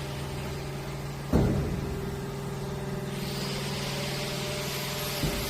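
Kookdo 4-roll plate bending machine running with a steady motor hum, with one loud clunk about a second and a half in.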